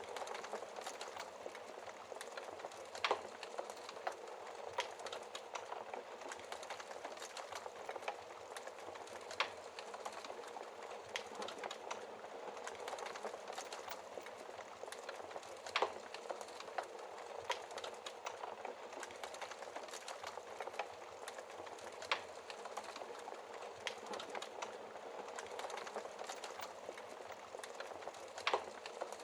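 Wood fire burning in a fireplace: a steady hiss and flutter of flames with frequent small crackles and a few louder sharp pops from the logs, spaced several seconds apart.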